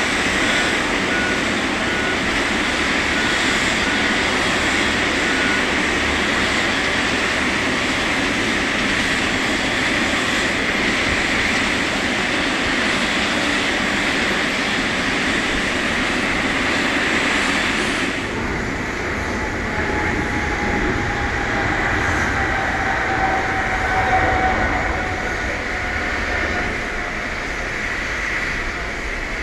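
Steady airport apron noise of aircraft and ground vehicles, with a pulsing beep in the first few seconds. About 18 seconds in, the high hiss drops away and a faint, slowly falling whine is heard.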